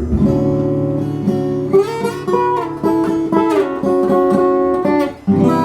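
Acoustic guitar strummed and picked in an instrumental fill between sung lines: a held chord, then a run of plucked notes, a brief break a little after five seconds and a fresh chord.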